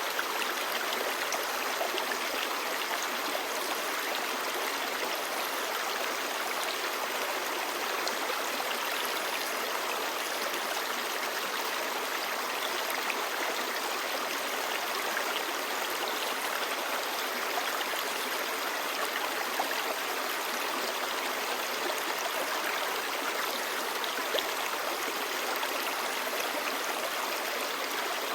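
Clear stream babbling steadily: a constant rush of flowing water with small scattered splashes.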